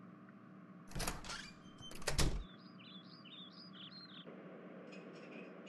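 Two brief clattering sounds, about a second and two seconds in, the second louder. After them comes a run of short, high bird chirps, each falling in pitch, over a faint steady hum.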